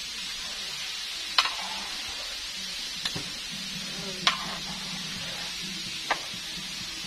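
Chicken deep-frying in oil in a wok, a steady sizzle, with four sharp clinks of the metal spatula against the wok as it is stirred.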